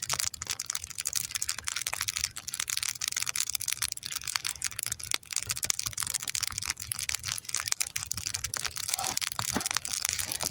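Campfire crackling: a dense, irregular run of small pops and snaps that goes on throughout.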